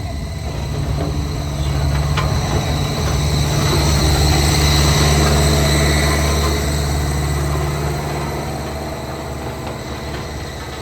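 Heavy diesel machinery engine running steadily, growing louder toward the middle and then easing off, with a sharp click about two seconds in.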